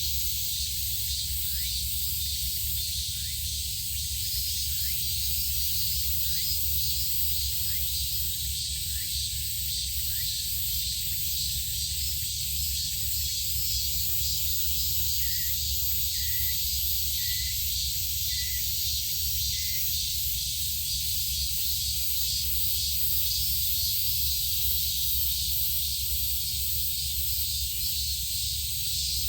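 A steady high hiss of outdoor background with a low rumble under it. Over it, a bird gives a run of short rising chirps about once a second, then about five short higher notes near the middle.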